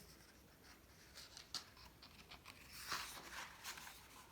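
Faint rustle of a picture book's paper page being turned, with a few soft clicks before it.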